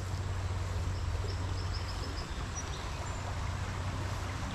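A bird chirping a quick run of about six short, high notes about a second in, with a brief high note after, over a steady rushing outdoor noise with a low rumble.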